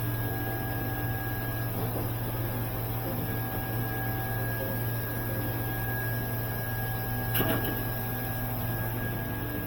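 Steady electrical hum with faint, thin whining tones above it, from car wash control equipment that has just been switched on. A single short click comes near the end.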